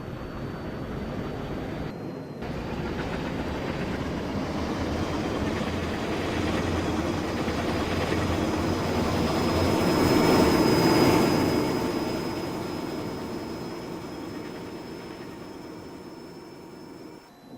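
Metra commuter train passing by: a rumble that swells to its loudest about ten seconds in, then fades away.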